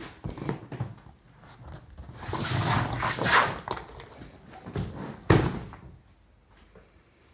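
Handling noises: a few light knocks, then a rustling scrape lasting about a second and a half, and a single sharp knock a little after five seconds in.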